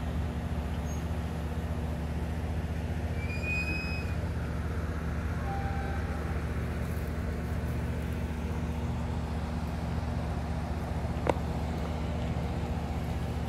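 Standing passenger train humming steadily, a low, even drone of several notes from its idling diesel power and car equipment. A few faint high chirps come about three to four seconds in, and a single sharp tick about eleven seconds in.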